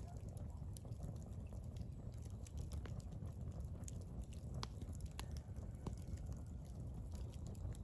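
Wood fire burning with a low steady rumble of the flames and scattered sharp crackles and pops from the burning logs.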